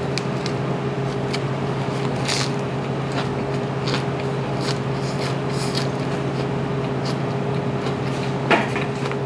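Crisp crunching and small clicks of a mouthful of fresh cilantro leaves being chewed, over a steady low electrical hum.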